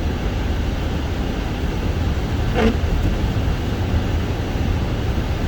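Steady rumble of a car driving on a snow-covered, unplowed road, heard from inside the cabin, with one short, sharp sound about two and a half seconds in.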